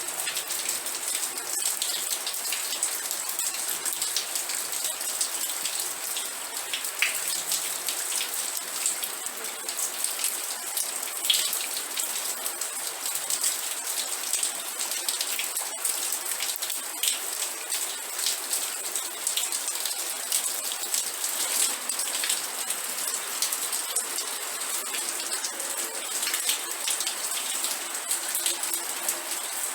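Steady rain falling on a surface, a dense patter of many individual drops with occasional louder drips.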